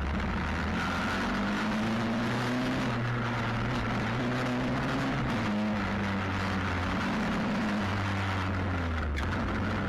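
Stomp WPB 125 pit bike's single-cylinder four-stroke engine running while riding, its revs rising and falling several times, under a steady rushing noise.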